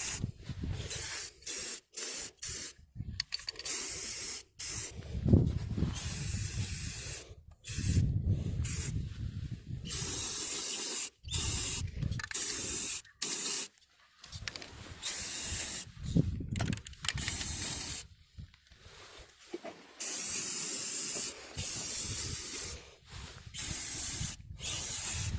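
Aerosol can of spray enamel hissing in many short bursts, some a fraction of a second and some about two seconds long, with brief pauses between, as a thick coat of paint is laid onto a galvanized pipe joint.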